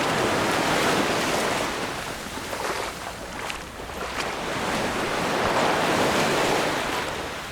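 Mediterranean sea waves breaking and washing up the beach, the surf swelling twice, about five seconds apart.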